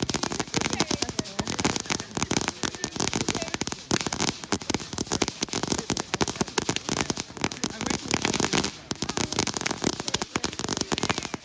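Fireworks crackling: a dense, continuous run of rapid sharp pops, with a brief lull about nine seconds in.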